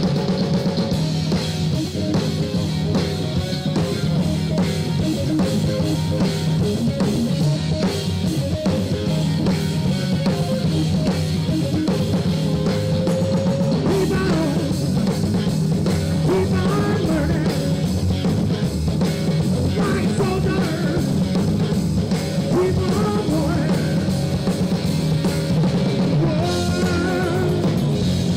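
Live rock band playing, with the drum kit to the fore: a steady beat of bass drum and snare over bass and guitar.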